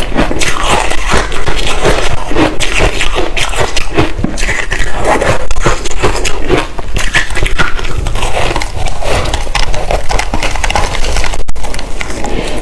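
Loud, continuous crunching and chewing of large ice chunks dusted with matcha powder: a dense, irregular crackle of ice cracking and breaking between the teeth.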